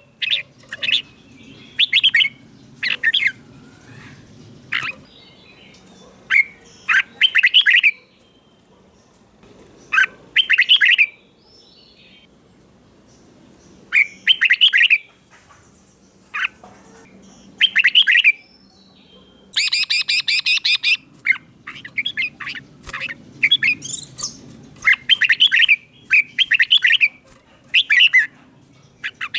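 Red-whiskered bulbul singing: short, quick whistled phrases repeated over and over, with pauses of one to a few seconds between them.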